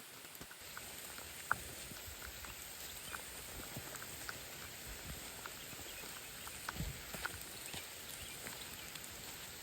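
Steady rain falling, a soft even hiss with scattered drops tapping close by.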